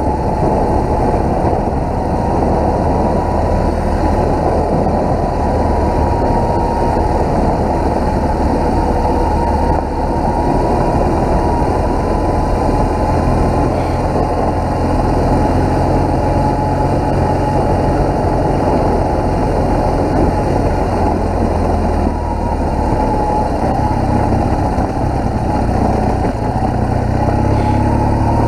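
BMW R1200GS boxer-twin engine running steadily as the bike rides along a graded dirt road, under a constant wash of wind and road noise. The engine note shifts a couple of times, about twelve seconds in and again near the end.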